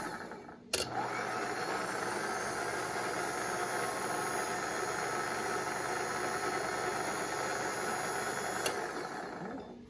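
Electric motor of a Ramsey 12,000 lb worm-gear winch running on a jumper lead for a bench test. It cuts out briefly at the start and comes back with a sharp click as the lead is touched on again. It then runs steadily, clicks once more near the end and spins down.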